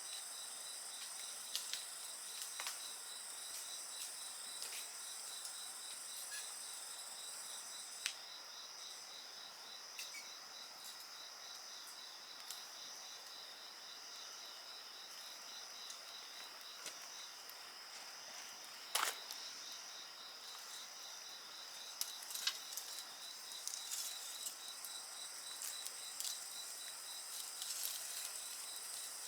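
Night insects trilling steadily in an even pulsed chorus, with a wood fire crackling and giving sharp pops now and then, one louder pop about two-thirds of the way through. A higher-pitched insect falls silent about eight seconds in and starts again near the end.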